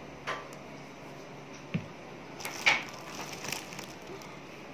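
A few scattered light knocks and clatters, with the loudest a short cluster about two and a half seconds in.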